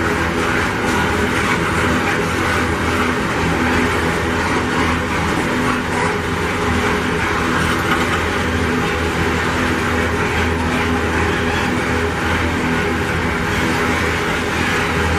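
Loaded GDU ore gondola wagons of a long freight train rolling past at steady speed: the continuous noise of steel wheels running on the rails.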